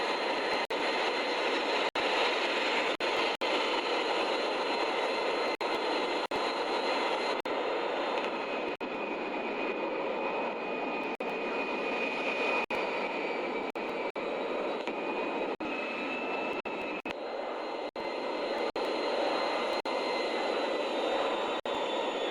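Jet airplane engines droning steadily in flight, with faint high whining tones over the noise, broken now and then by brief dropouts.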